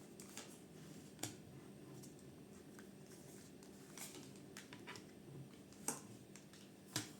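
Tarot cards being handled and laid down: soft rustles and small clicks, with three sharper taps about a second in, near six seconds and near seven seconds, over a faint steady hum.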